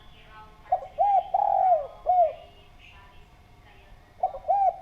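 Spotted dove (derkuku/tekukur) cooing: one full phrase of a short note, two quick notes, a long drawn-out coo and a short final note. The next phrase begins near the end.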